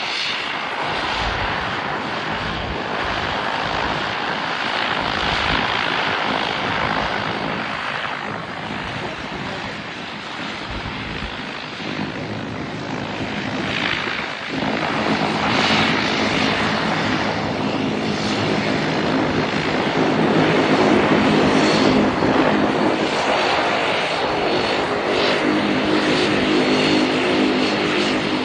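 Airliner engines running loud, a steady rushing roar. About halfway through a hum of several steady tones comes in and the sound grows a little louder.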